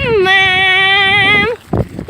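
A person's long, drawn-out shouted call held on one high pitch for about a second and a half, then breaking off, with a second call starting near the end.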